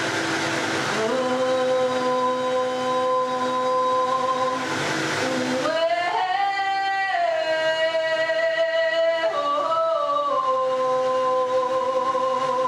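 A woman singing long held vowel tones over the steady whir of a Vitamix blender, tuning her voice to its drone. She moves to a new held pitch a few times, sliding up about halfway through and back down near the end.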